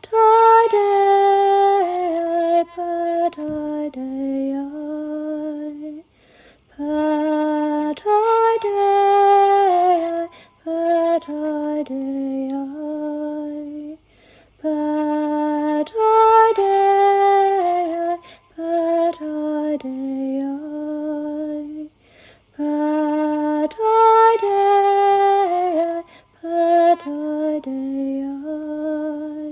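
A woman singing solo, a slow chant-like melody in repeated phrases of about seven or eight seconds, with brief pauses between them.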